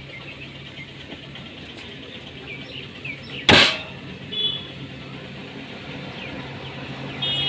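Car running along a road, heard from inside: a steady low engine hum over road noise. One loud thump about three and a half seconds in, and brief high beeps twice, near the middle and near the end.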